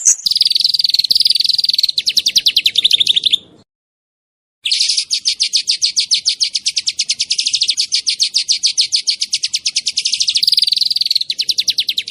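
A small songbird's rapid, dense trill of sharp high notes, about ten a second: the 'nembak' (shooting) call. One burst stops about three and a half seconds in, and a longer one starts a second later.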